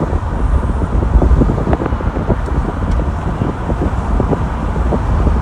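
Loud, gusty wind buffeting the microphone over a steady low rumble.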